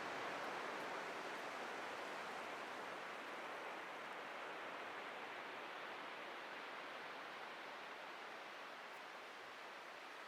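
Atlantic ocean surf washing onto the beach, a steady rushing hiss that slowly eases as a wave recedes.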